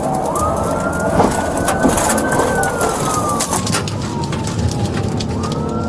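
Police car siren wailing, slowly rising and falling in pitch, over loud steady engine and road noise during a high-speed pursuit. A few sharp clicks are heard along the way.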